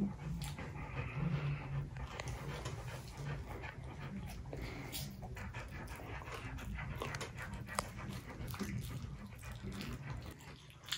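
Close mouth sounds of a man chewing a big bite of cheeseburger: many small wet clicks and heavy breathing through the nose, with a few low hums.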